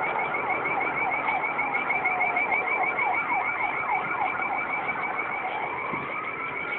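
Emergency vehicle sirens: one goes from a slow wail into a rapid yelp and back into a slow rising wail near the end, while a higher second siren pulses steadily throughout.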